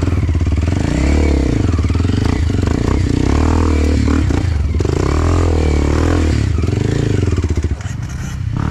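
Enduro dirt bike engine revving up and down as it is ridden, the pitch rising and falling every second or so as the throttle opens and closes; the revs drop near the end.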